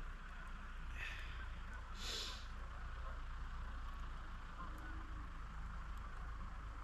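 Steady low drone of distant tractors working in the fields, with two short hisses about one and two seconds in.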